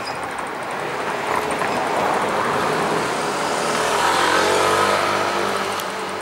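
A vehicle passing close by, its engine or motor note rising slightly in pitch as it grows loudest about four to five seconds in.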